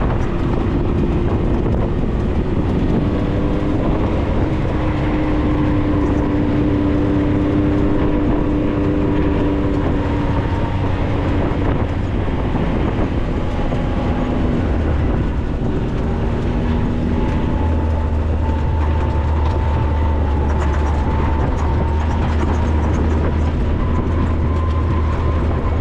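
A 4x4 under way, its engine and drivetrain running steadily with a low rumble and a whine that drifts slowly up and down in pitch as the speed changes.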